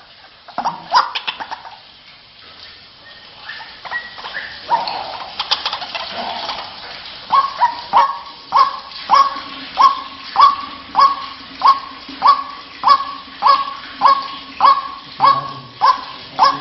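White-breasted waterhen calls, from a lure recording used to attract the birds. At first there are scattered clicks and irregular croaks. About seven seconds in, a steady series of sharp, repeated calls begins, roughly one and a half per second.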